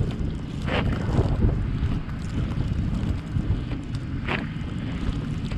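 Car driving through a snowstorm: a steady low rumble of road and wind noise, with two brief swishes about a second in and again near the end.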